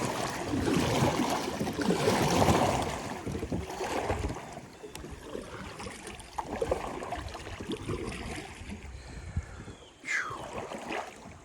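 Water sloshing and splashing around a kayak with irregular knocks of handling, loudest in the first few seconds and then quieter.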